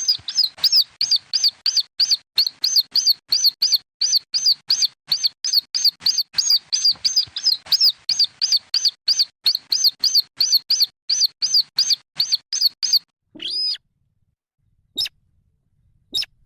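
Chicks of a rail (weris or sintar) giving a fast run of short, high peeping calls, about three or four a second, which stops about 13 seconds in. One longer call follows, then a couple of single short peeps near the end.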